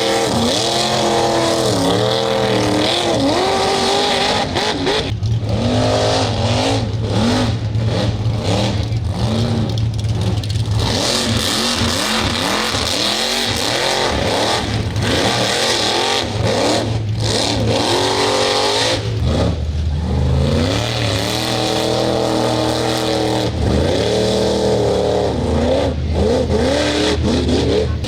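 Mud-bog truck engines revving hard, their pitch climbing and dropping over and over as the throttle is worked.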